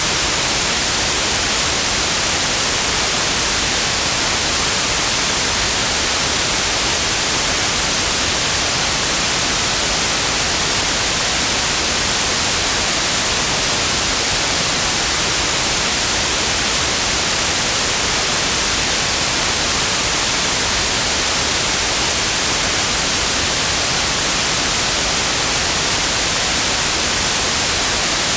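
Steady, unbroken white noise: an even hiss across all pitches, strongest in the highs, played for relaxation, focus, sleep and tinnitus masking.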